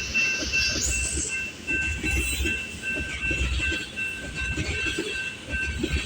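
Loaded oil train tank cars rolling past at speed, the wheels rumbling and clattering over the rail, while a grade-crossing bell dings steadily.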